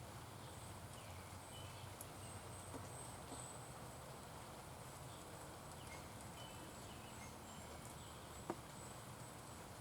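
Faint wild birds chirping in short scattered notes over a steady low hum, with one sharp click near the end.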